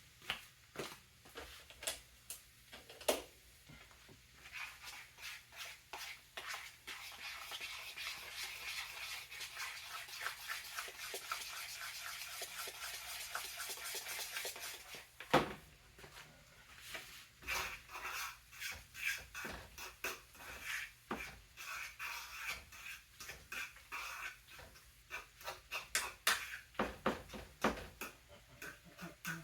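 Kitchen cookware being handled at the stove: clinks and knocks of utensils against pots and pans, with a single loud knock about halfway through, over stretches of dense crackling.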